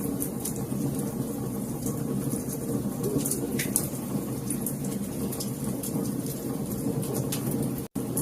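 Wood fire burning in a fireplace: a steady low rumble of flames with scattered sharp pops and crackles. The sound cuts out for an instant near the end.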